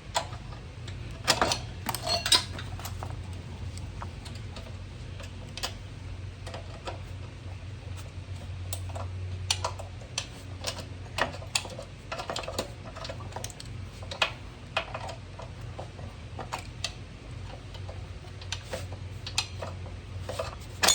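Scattered metallic clicks, taps and clinks of hand tools and small metal parts as a part is worked off a mini bike, over a steady low hum.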